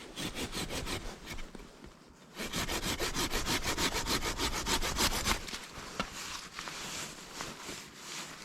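Hand saw cutting through wood in quick, even back-and-forth strokes, loudest in the middle stretch and easing off near the end.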